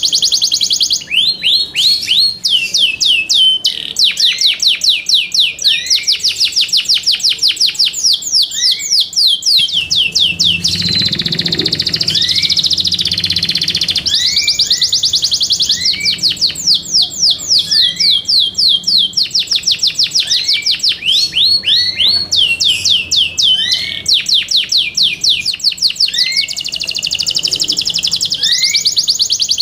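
Yorkshire canary singing a long song of fast rolls: rapid repeated high notes in quick trains, broken by short rising chirps. A few seconds in the middle it switches to a held, warbling passage.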